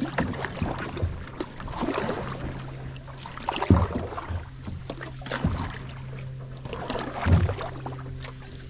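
Kayak paddling: the paddle dipping and splashing in the water with low knocks about every two seconds, over a faint steady low hum.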